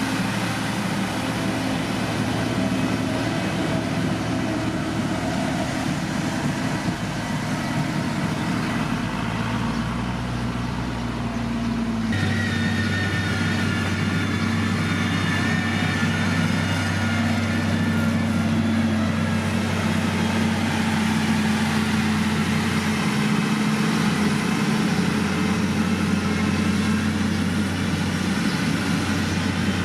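Diesel engine of heavy road-construction machinery running steadily. The engine note changes abruptly about twelve seconds in.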